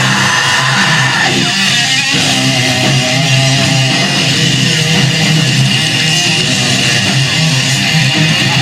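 Live heavy metal band playing loud and continuous, with distorted electric guitars.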